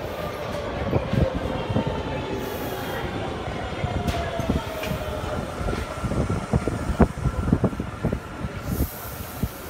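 Tobu 100 series 'Spacia' train pulling into the platform and slowing, with a whine that falls steadily in pitch as it slows. Over a low rumble, the wheels clack and knock over the rail joints, more often in the second half.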